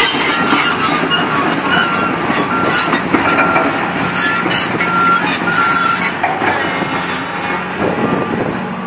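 Komatsu PC200LC-5L excavator travelling on its steel tracks: the diesel engine runs steadily while the track links clank and give short, repeated squeals. It eases off slightly near the end.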